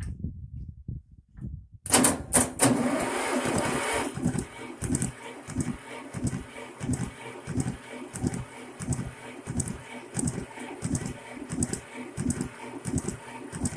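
Shenniu 4/25 compact tractor's diesel engine being cranked by its starter from about two seconds in. It turns over slowly in even pulses about twice a second without catching: a cold engine that won't fire.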